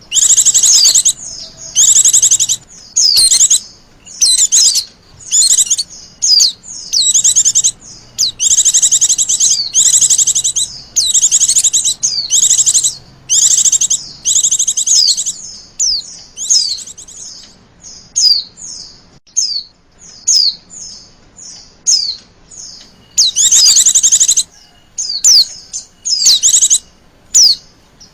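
Female white-eye (Zosterops) calling, the call used to lure a male into singing. It comes as a string of loud, high, rapid chattering bursts of about half a second to a second each, separated by short gaps, with shorter thin chirps between them in the second half.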